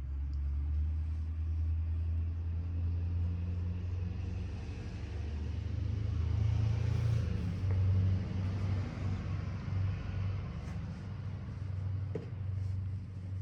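Mazda FD RX-7's twin-rotor 13B rotary engine running with a steady low rumble, swelling a little about halfway through.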